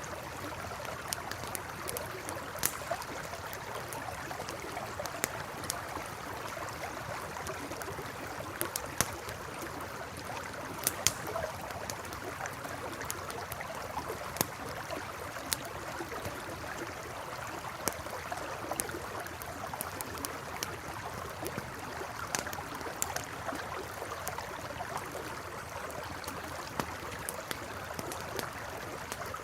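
A river babbling steadily over stones, with the irregular crackles and sharp pops of a campfire burning beside it, a few pops louder than the rest about a third of the way in.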